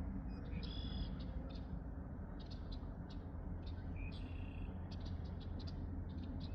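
Morning birds singing: many short chirps and a few brief whistled notes, over a steady low rumble.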